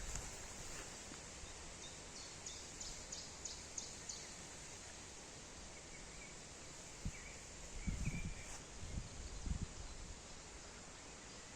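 Forest ambience: a steady high hiss with a quick run of short high chirps a couple of seconds in and a few brief bird calls later. A few dull low thumps come near the middle.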